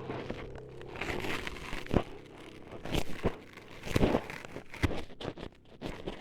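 Close, irregular crinkling, scraping and crunching noises of ASMR triggers, meant to suggest ears being cut, with a few sharp crunches at about two, three and four seconds in.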